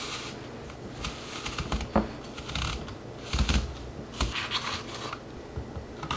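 Scratchy scraping and rubbing as apples are prepared for cooking, in short repeated strokes, with a sharp knock about two seconds in and a soft thud about three and a half seconds in.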